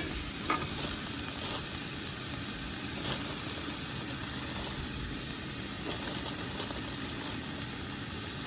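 Onions and peppers frying in a camp-stove pan, a steady sizzle, with a few faint clicks.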